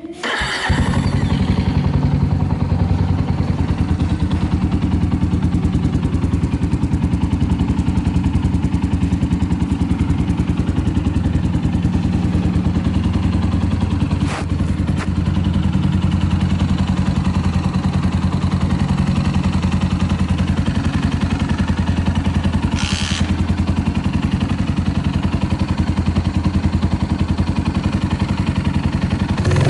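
Suzuki Grasstracker Big Boy's single-cylinder four-stroke engine, breathing through an aftermarket Supertrapp 4-inch muffler, catches just after the start and then idles steadily. The seller describes it as running with no abnormal noises. A brief click sounds about a third of the way through and a short hiss about three-quarters through.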